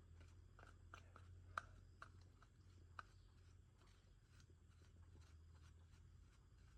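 Near silence: a faint low hum with scattered light clicks and taps, the sharpest about one and a half seconds in.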